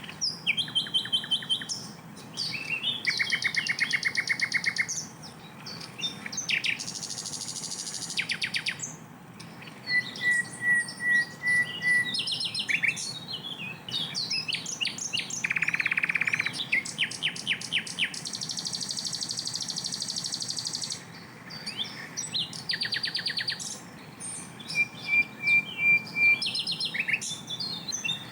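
Yellow-rumped flycatcher (sikatan londo) singing a loud, dense song of rapid trills, buzzy rattles and sharp repeated notes. The phrases are strung tightly one after another with hardly a break.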